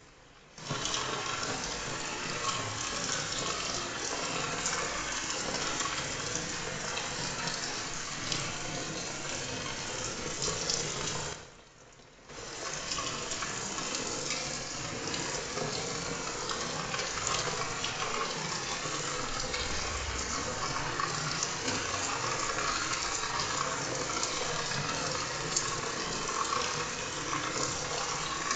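Rain falling steadily, the sound dropping away briefly for about a second a little before halfway.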